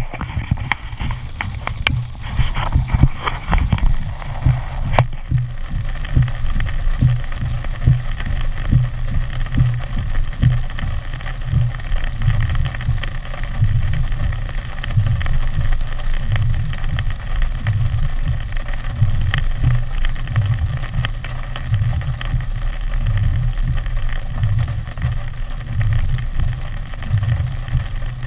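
Hurricane Harvey's wind buffeting the microphone in irregular gusts of low rumble over a steady hiss, with a few sharp clicks in the first few seconds.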